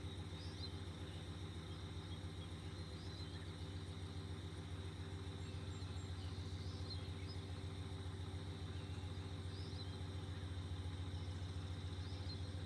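A steady low motor hum, with faint bird chirps every few seconds.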